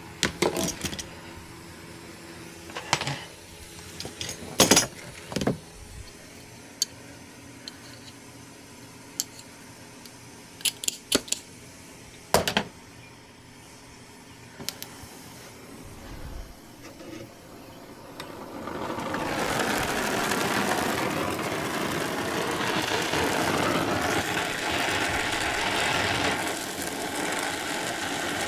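Scattered clicks and knocks of tools and fittings being handled. About two-thirds of the way through, a brazing torch starts and burns with a steady, loud hiss while the copper joints at the TXV are brazed with nitrogen flowing through the line.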